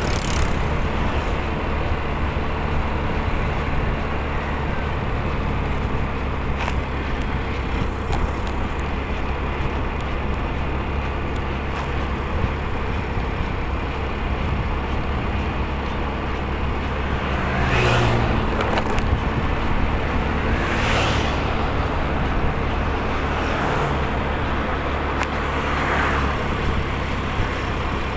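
Steady road noise of a motorcycle ride: constant low rumble and wind hiss on the microphone. Several vehicles pass, two of them close by about two-thirds of the way through and two fainter ones near the end.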